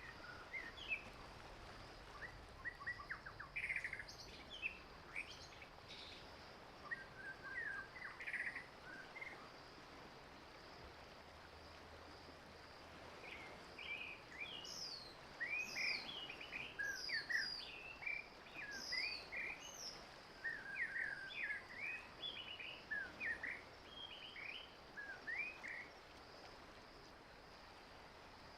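Several wild birds calling and singing: quick chirps and short sliding whistled notes, sparse at first, then a busy stretch of many overlapping calls through the middle that thins out near the end. A steady faint high insect buzz runs underneath.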